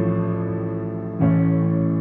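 Piano playing slow sustained chords: one chord rings and fades, and a new chord is struck a little over a second in and left to ring.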